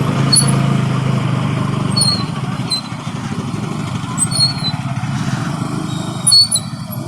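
Motorcycle engine running at low speed, strongest for the first second or so and then easing off, with road noise from a rough gravel surface. Four short high squeaks come about every two seconds, the loudest near the end.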